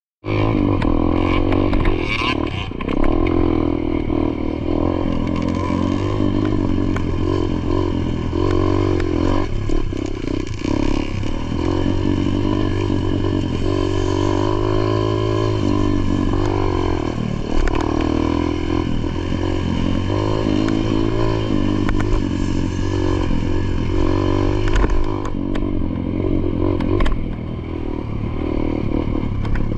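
Dirt bike engine running hard on a motocross track, its pitch rising and falling again and again as the throttle opens and closes through the gears.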